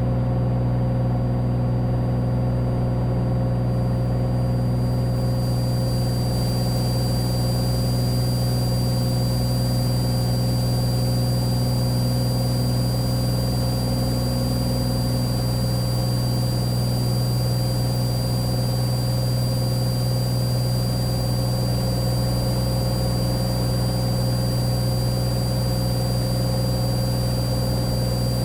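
Cessna 182T's six-cylinder Lycoming engine and propeller running steadily at climb power, a constant low drone heard from inside the cabin, with a faint steady high whine over it.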